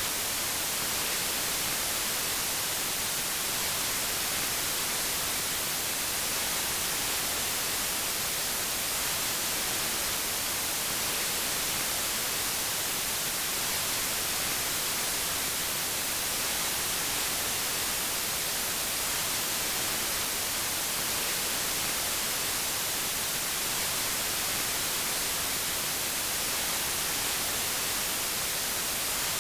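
Steady white noise: an even, unchanging hiss, strongest in the highs, with nothing else in it.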